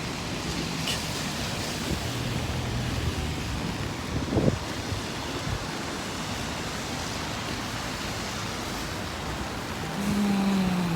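Traffic on a busy city street in strong wind and rain: a steady hiss of passing vehicles, wind and rain, with a brief louder gust or swish about four seconds in and a low steady hum from a vehicle near the end.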